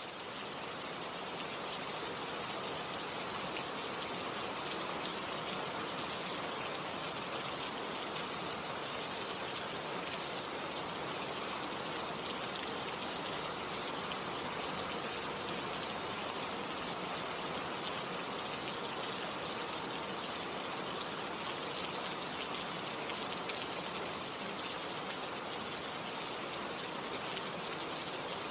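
Steady rain: a dense, even hiss with fine ticks of individual drops, swelling up over the first second and then holding steady.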